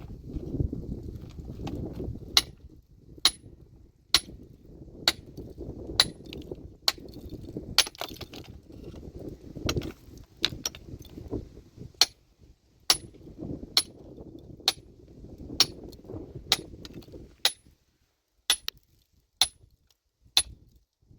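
A metal tool, a hammer or pickaxe, striking stone in a steady rhythm of about one ringing clink a second. A low rumble runs underneath and stops about three-quarters of the way through.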